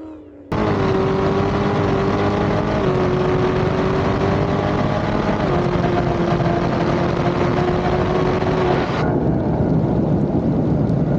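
A drag car's engine running hard at high, fairly steady revs. It cuts in suddenly about half a second in, and its pitch shifts a little a couple of times.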